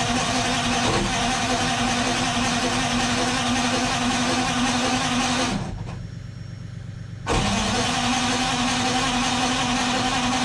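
Detroit Diesel 6V53T turbocharged two-stroke V6 diesel engine running steadily just after a cold start. In the middle the sound turns briefly muffled and quieter, then comes back abruptly.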